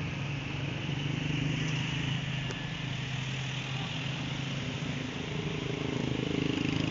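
A vehicle engine running steadily, its pitch rising a little near the end.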